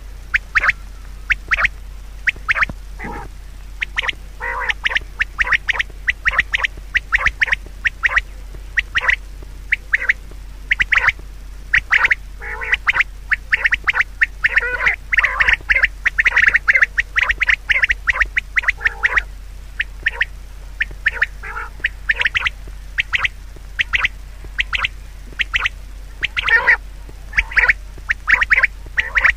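Birds calling: many short, sharp calls repeated rapidly and overlapping, over a steady low hum.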